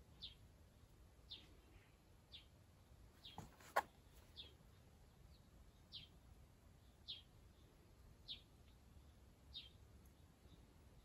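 A bird repeating a single short, high, slightly falling chirp about once a second, faint. One sharp click about four seconds in.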